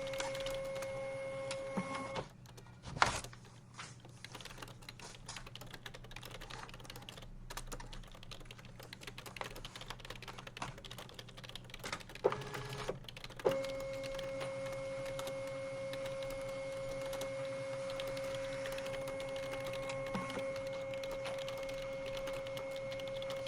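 Typing on a computer keyboard: a run of quick key clicks, with one sharp louder click about three seconds in. A steady machine hum drops out about two seconds in and comes back just past halfway.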